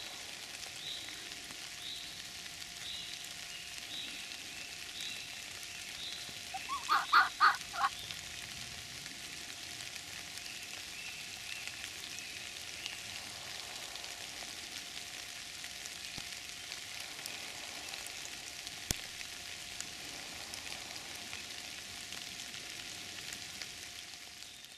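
Steady heavy rain pattering on the forest floor and leaves. About seven seconds in comes a quick run of about five short pitched calls, the loudest sound. A faint high chirp repeats about once a second at the start.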